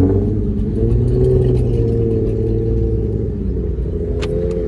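Car engine pulling after an acceleration, its pitch levelling off and holding steady, then easing slightly about three seconds in, heard from inside the car.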